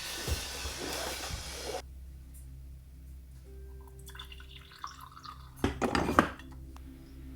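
Water pouring or running for about two seconds, stopping abruptly, followed by light clinks and then a few louder knocks of dishes or a pot.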